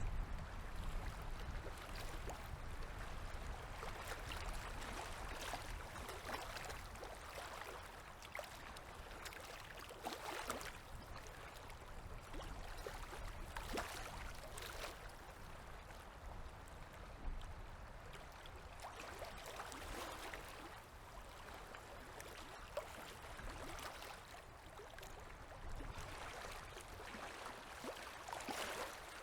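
Small river waves lapping and gurgling at the water's edge, in gentle swells every few seconds.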